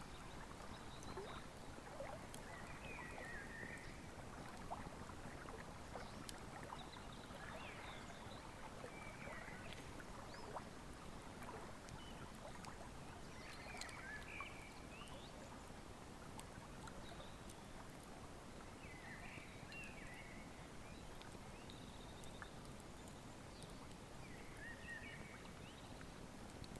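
Wood fire crackling with scattered sharp pops over the steady rush of a flowing river, with a bird giving short chirps every few seconds.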